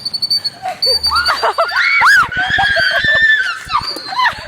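Girls screaming and shrieking for about three seconds, loudest around the middle, mixed with short high squeaks from a nesting mother bird guarding her nest.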